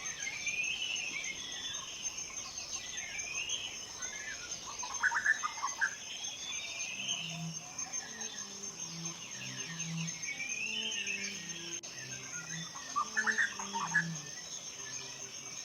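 Forest ambience: a steady high insect trill under repeated bird calls, with two brief louder bursts of chirping about five and thirteen seconds in. A soft, slow low melody comes in about halfway through.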